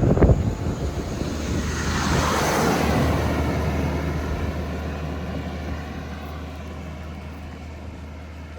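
A motor vehicle passing by: a whoosh that swells to a peak about two to three seconds in and slowly fades away, over a steady low hum, after a brief knock at the start.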